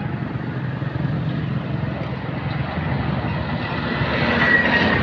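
Motor vehicle engines running, a steady low hum, with a rising noise and a thin high whine building toward the end.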